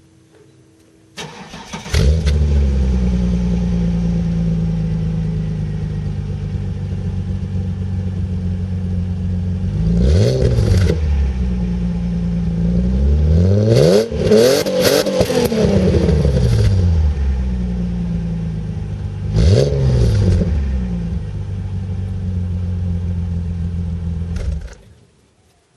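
Holden VS Commodore's 3.8-litre V6 exhaust through a 2.5 inch Eumex cat-back system: the engine is cranked and catches about two seconds in, idles steadily, is revved once, then in a cluster of several quick blips, then once more, and is switched off near the end.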